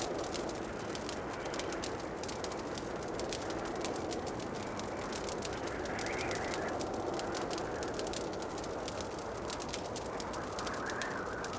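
Fireplace fire crackling with many quick, sharp pops over a steady soft rushing background that swells gently a couple of times.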